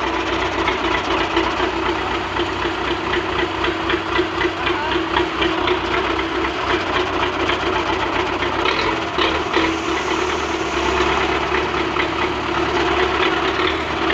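Tractor engine running steadily at a constant speed, with an even, rapid pulsing of its firing.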